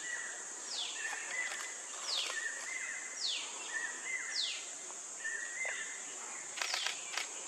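A steady high-pitched insect drone, with a repeated call that falls in pitch about once a second, each followed by a short flat note. A few sharp clicks come near the end.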